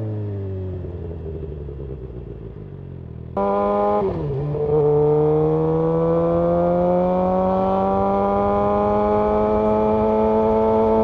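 Suzuki GSX-R750's inline-four engine: the revs fall for about three seconds, then it suddenly gets louder, dips briefly about four seconds in at a gear change, and the revs climb steadily as the bike accelerates.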